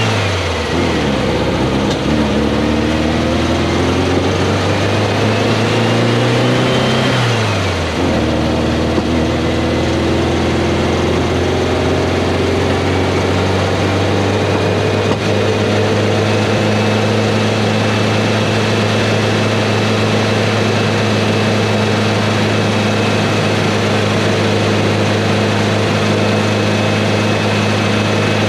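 Air-cooled Volkswagen Beetle flat-four engine under way: its pitch climbs for several seconds, drops about eight seconds in, then holds steady at cruise, over road and wind noise.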